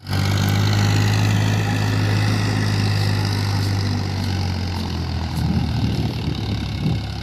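Farmtrac Champion tractor's diesel engine running with a steady, deep drone; from about five seconds in it becomes less even, with irregular pulses.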